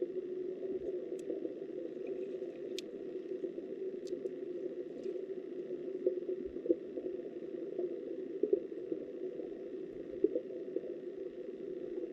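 Muffled, steady rush of river water heard through an underwater camera, with a few faint sharp ticks in the first half.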